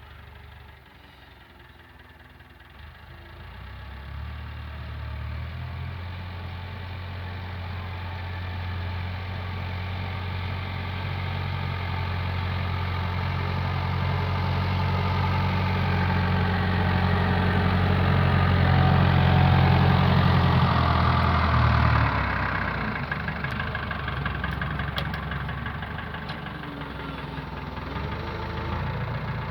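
Diesel engine of a Fendt tractor running steadily. It grows louder over about twenty seconds, then drops off sharply about two-thirds of the way through and carries on at a lower level.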